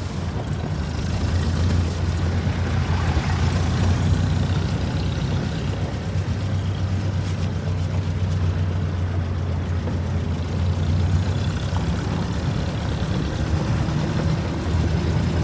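Engine of a 1962 Jeep M170 running at a steady speed, a constant low hum.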